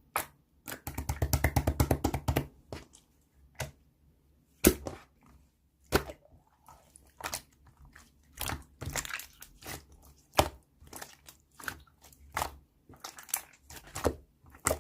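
Slime being squeezed and worked by hand, giving irregular sticky clicks, crackles and pops, with a quick run of rapid pops about a second in.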